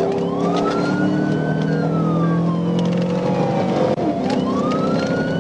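Police car siren on a slow wail, rising and falling about once every four seconds, over the steady noise of the patrol car's engine and tyres at high speed during a pursuit.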